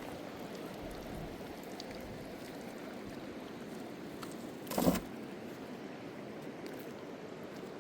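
Steady rushing of river water, with a single sharp knock about five seconds in.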